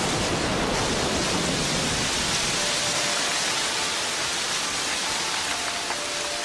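Heavy tropical rainforest downpour, a steady dense hiss of rain. A low rumble dies away in the first couple of seconds.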